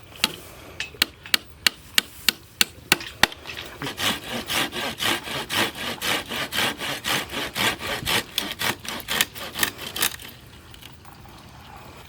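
Rhythmic knocking and rubbing strokes on wood: sharp knocks about three a second at first, then about six seconds of faster, rasping strokes that stop abruptly near the end.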